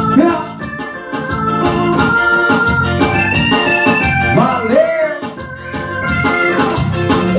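Electronic keyboard playing an organ-voiced instrumental passage: held chords under a melody line, with a swooping pitch-bent note a little past the middle.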